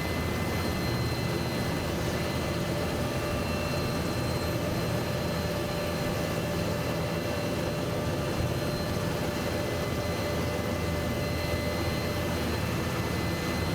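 Helicopter running steadily: a low rumble of engine and rotors with a constant high whine over it.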